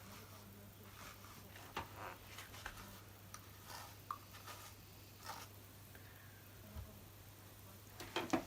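Pet brush being drawn through an Akita's thick coat: short scratchy swishes at irregular intervals, a few quicker ones together near the end, over a low steady hum.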